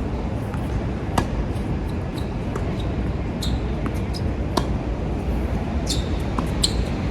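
Tennis balls struck by rackets and bouncing on a hard court: sharp pops, the loudest about a second in and again near the middle, with smaller ticks between. A steady low rumble of strong wind on the microphone runs under them.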